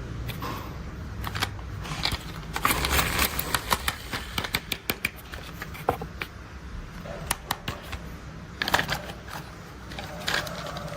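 Plastic toy excavator and dump truck being played with: irregular clicks and short clattering runs, busiest in the first half, with a couple of louder clacks near the end, over a low steady hum.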